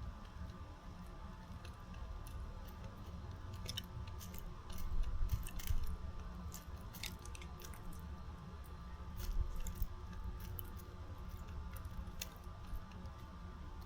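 Birds pecking and cracking seed at a feeder: scattered sharp clicks and crunches, busiest a few seconds in and again near the middle, over a steady low rumble.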